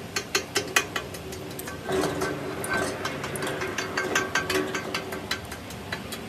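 Mechanical clicking, like a ratchet or metal parts knocking, in quick irregular strokes. A steady machine hum comes in about two seconds in.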